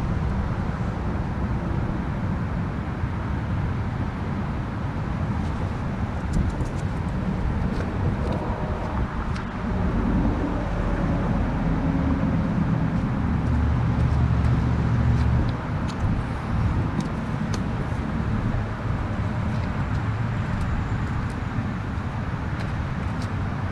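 Steady low rumble of motor traffic, with a vehicle's engine hum swelling for a few seconds about ten seconds in, and a few faint small clicks.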